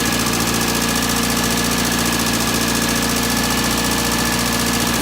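Ministox racing Mini's engine running at a steady idle during its first startup.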